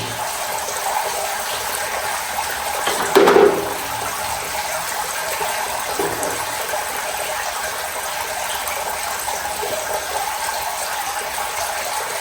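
Steady rush of pressurised water spraying or hissing out of the pressure washer's plumbing, with one brief louder knock about three seconds in.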